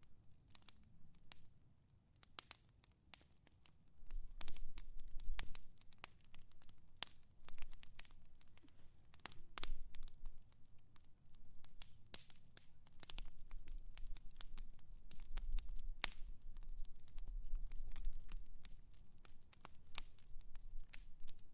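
Fire crackling, with irregular sharp pops and snaps over a faint hiss. A low rumble swells several times, around four seconds in, through the middle and near the end.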